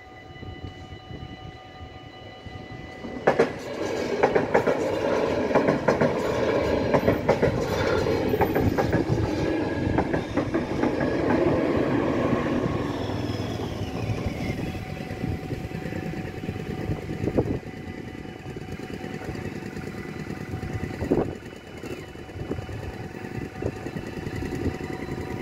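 Dutch level-crossing bells ringing steadily while an NS DDZ double-deck intercity electric train passes for about ten seconds, its wheels clattering over the rail joints. The train fades away and the bells go on ringing.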